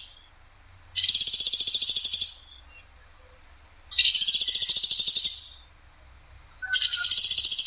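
Platuk sampit bird calling: three rapid, harsh trills of fast repeated notes, each over a second long and about three seconds apart.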